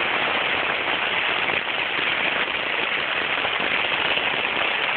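Steady rain falling on a tent, heard from inside the tent as a dense, even patter.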